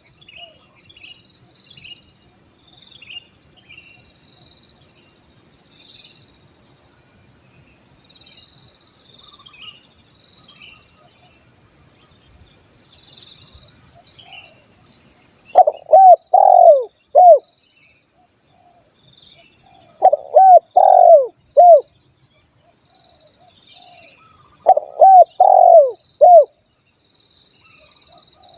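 Spotted dove (tekukur) cooing: from about halfway, three loud phrases of about four notes each, a few seconds apart. Under it, a steady high insect hum and small chirps of other birds.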